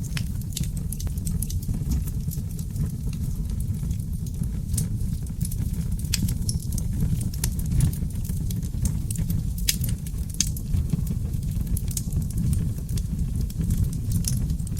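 Wood fire of seasoned oak logs burning in a fireplace: a steady low rumble of flames with frequent sharp crackles and pops scattered throughout.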